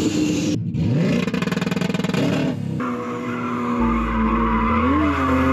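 Drift car's engine revving hard, rising about a second in and then held at high revs, with tyres squealing as the car slides.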